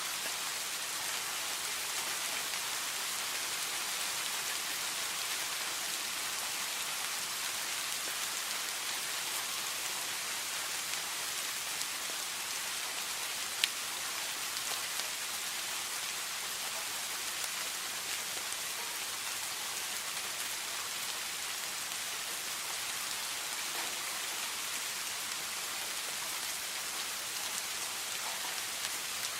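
Steady rain falling, a dense even hiss of drops hitting a surface, with one sharp drip or tap about halfway through.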